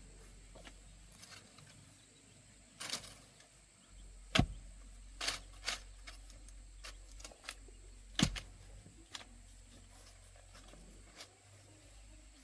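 About half a dozen sharp knocks at irregular intervals, with quieter clicks and taps between them, over a faint steady hum.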